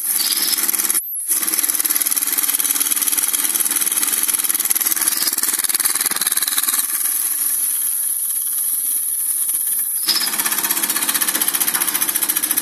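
Märklin vertical model steam engine running fast, clattering in a rapid even rhythm, with a thin high whistle of steam letting off pressure over it. The sound breaks off briefly about a second in.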